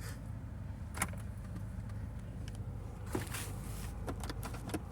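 A car running with a steady low rumble, with a few sharp clicks and knocks, one about a second in and another about three seconds in.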